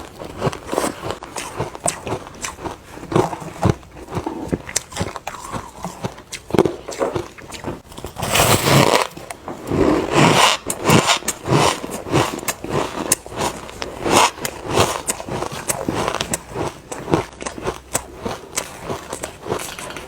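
Close-miked biting and chewing of refrozen ice, a dense run of sandy crunches with a louder burst of bites about halfway through.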